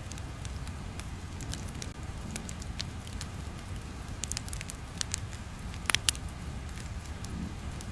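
Crackling fire ambience: a steady low rumble with scattered sharp pops and snaps, the loudest couple about six seconds in.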